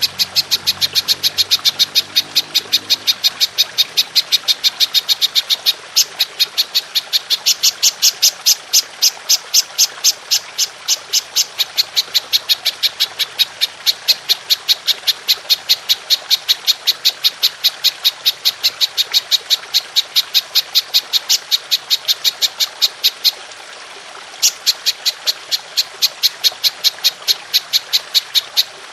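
Belalang emas (golden grasshopper) calling in a long run of sharp, evenly spaced chirps, about three to four a second, with a pause of about a second near the end before it resumes. Underneath runs a steady trickle of water.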